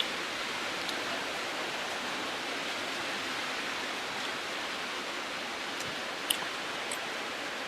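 Steady hiss of heavy rain, with a few faint clicks.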